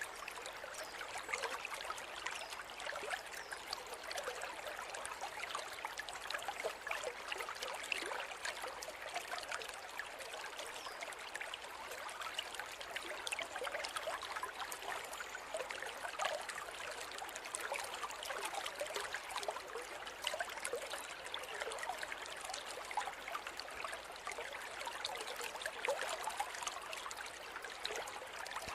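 Forest river flowing steadily, water burbling and trickling over stones in a continuous, even rush.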